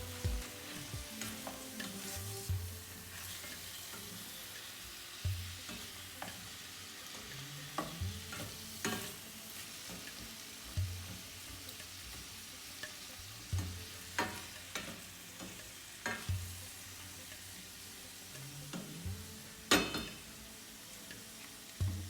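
Food sizzling as it fries in a pan, a steady hiss broken by scattered clicks and scrapes of a utensil stirring and turning it. The sharpest knock comes near the end.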